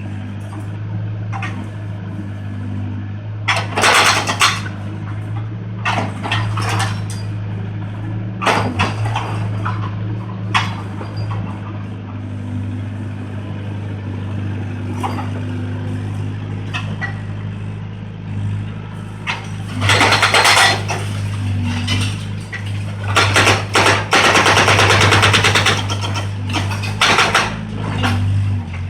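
Volvo 55 compact excavator's diesel engine running steadily, with irregular crashes and clattering as concrete and debris break and fall during demolition; the loudest stretches of crashing come about two-thirds of the way in.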